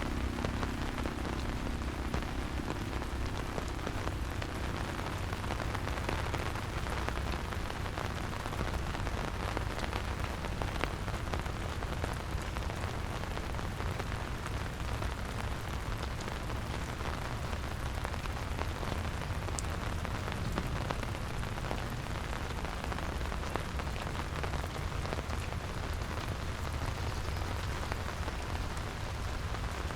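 Steady rain falling on surfaces, with individual drops clicking over an even hiss and a low rumble underneath.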